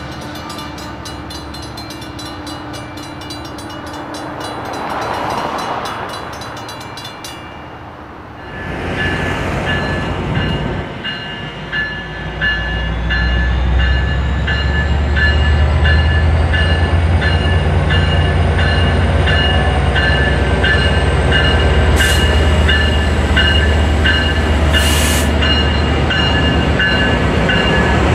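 A grade-crossing warning bell dinging rapidly, stopping about seven seconds in. Then an Amtrak Pacific Surfliner led by an F59PHI locomotive passes close by, its engine and wheels rumbling loud and steady, with a crossing bell dinging over it.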